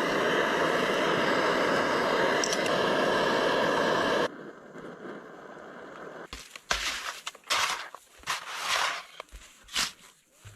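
A steady loud rushing noise that cuts off suddenly about four seconds in, followed by irregular crunching footsteps in snow.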